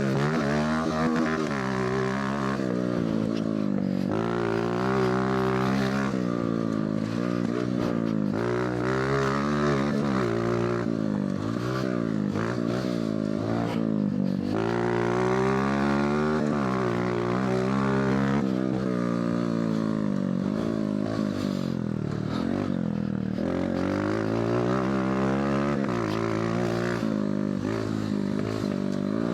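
Mini bike engine revving hard and backing off over and over, its pitch climbing and dropping every few seconds as the throttle is worked around the track.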